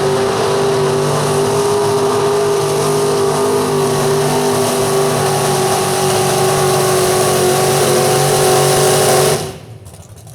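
Super stock 4x4 pulling truck's engine running flat out under load during a pull. It holds a steady, high-pitched note, then cuts off suddenly near the end as the throttle is shut.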